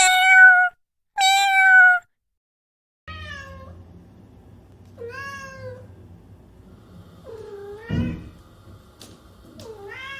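Domestic cat meowing: two loud, high meows close together, then after a short pause four quieter meows about two seconds apart over a low steady hum.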